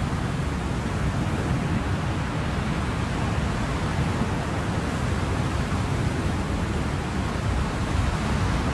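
Ocean surf as a steady, even wash of noise at an unchanging level, with no separate wave crashes standing out.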